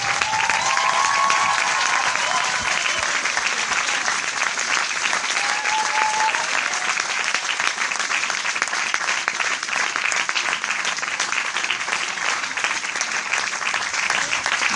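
Crowd applauding: many people clapping in a dense, steady patter, with a faint voice or whistle briefly heard over it near the start and again about six seconds in.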